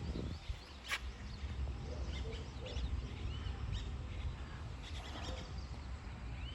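Small birds chirping and twittering on and off over a steady low outdoor rumble, with one sharp click about a second in.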